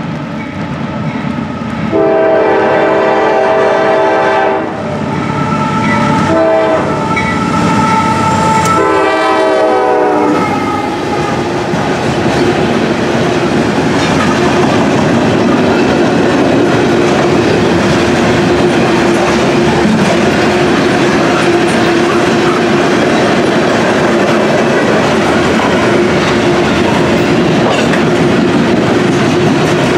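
Air horn of a Norfolk Southern GE AC44C6M diesel locomotive sounding several blasts for a grade crossing, starting about two seconds in, its pitch dropping on the last blast as the locomotive passes. From about eleven seconds on, the loaded coil-steel flatcars roll by with a steady rumble of steel wheels on rail.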